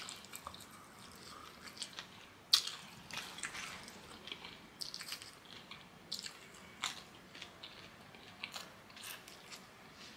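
Close-up eating sounds of a person chewing kenkey and deep-fried fish: soft, irregular chewing and mouth noises with scattered sharp clicks, the loudest about two and a half seconds in.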